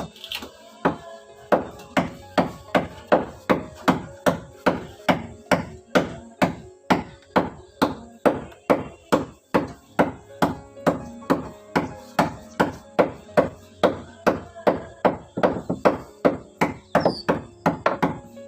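Repeated blows of a tool striking wood, a steady rhythm of about two to three blows a second, made while the boat's wooden engine foundation is worked.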